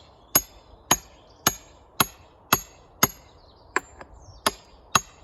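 Hammer blows on a steel wedge driving it into a large firewood block, nine sharp metallic strikes about two a second, each with a brief ring.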